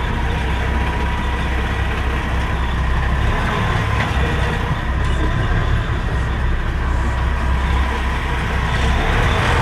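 Semi-truck diesel engine running steadily at low speed while the truck maneuvers a trailer into a parking spot, with a deep, even rumble.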